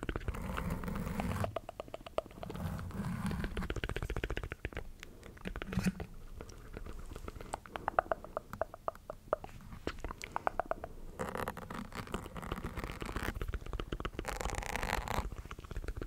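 Close-miked mouth sounds: rapid runs of wet clicks and smacks, with some low breathy swells between them.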